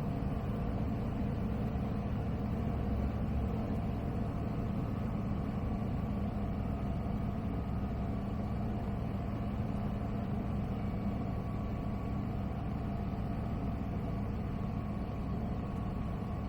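Zenith CH 701's Zonsen C100 engine, a Rotax 912 clone, and its three-blade propeller droning steadily in flight on the landing approach, heard through the cockpit intercom.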